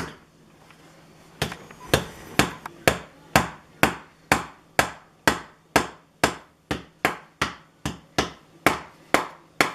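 Hammer driving nails into the wooden roof of a bird house, in a steady run of about eighteen strikes, roughly two a second, starting about a second and a half in.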